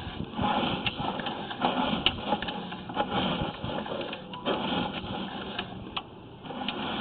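Sewer inspection camera's push cable being pulled back out of the line and onto its reel: an uneven mechanical rattle with scattered sharp clicks, coming in surges every second or so.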